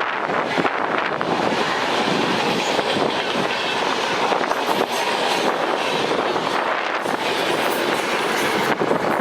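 Passenger train coaches running past close by, a steady rumble with wheels clattering over the rail joints.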